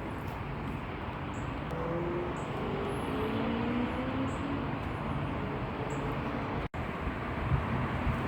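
Steady outdoor rumble of wind on the microphone with distant road traffic; around the middle a faint engine note rises slightly in pitch as a vehicle passes.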